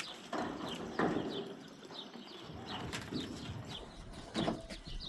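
Small birds chirping over and over, short high chirps. A few louder bursts of noise come through about half a second in, about a second in, and near the end.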